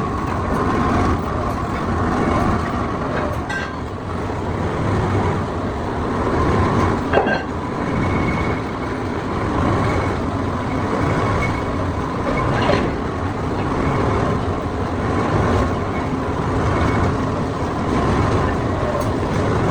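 Steady, loud workshop machinery noise, with a few sharp knocks and a faint high steady whine through the middle.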